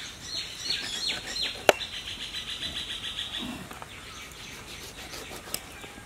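Small birds chirping in quick, repeated short calls, with one sharp click about a second and a half in.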